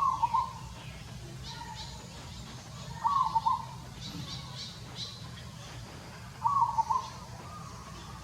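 An animal call repeated three times, each short and wavering, about three seconds apart, with fainter high chirps in between.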